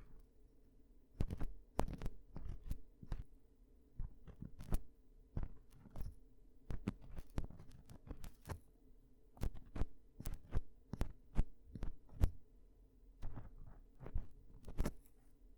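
Ear-cleaning tools scraping and tapping in a microphone's ear, heard as a run of irregular crisp clicks and scratches, several a second, over a faint steady hum.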